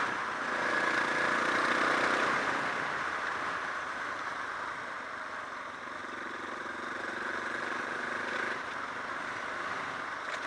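Suzuki DR650's single-cylinder engine running under way, louder for the first two or three seconds, then easing to a steadier, quieter run.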